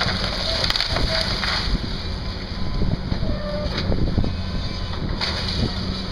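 Excavator engine running steadily under load, with scattered knocks and cracks and a few short squeaks from the machine working debris and trees.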